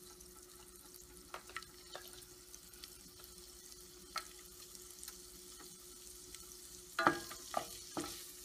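Sliced almonds frying in melted butter with a faint steady sizzle and scattered small pops. From about seven seconds in, a spatula stirs them, knocking and scraping against the pan. A steady low hum runs underneath.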